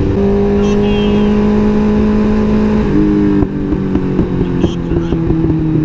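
Motorcycle engine running under way, rising in pitch as it accelerates at the start, then stepping down in pitch about three seconds in, as on a gear change or easing off the throttle. Wind rumble underneath.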